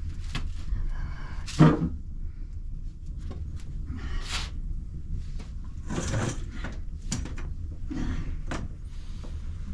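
A string of separate sharp knocks and thuds at irregular intervals, about seven in all, the loudest a little under two seconds in, over a steady low rumble.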